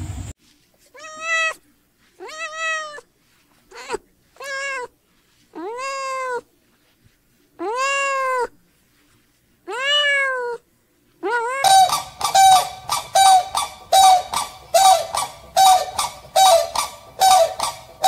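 An animal calling: about eight separate drawn-out calls, each rising then falling in pitch, with short silences between them. About twelve seconds in, a quicker run of shorter calls begins, two to three a second, over a noisier background.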